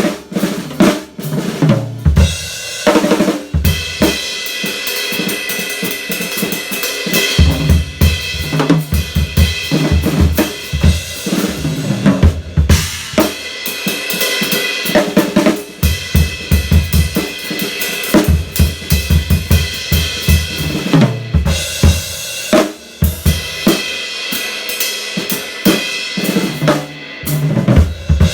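Drum kit being played: snare, bass drum, hi-hat and cymbals in a continuous groove of quick strokes.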